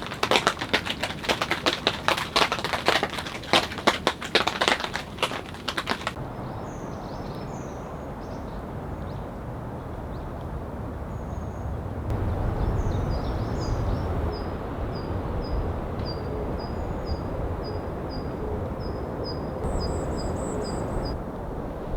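Dense crackling for about the first six seconds. Then a steady hiss of rain in the forest with small birds calling, one repeating a short chirp about twice a second. A low rumble comes in about halfway through.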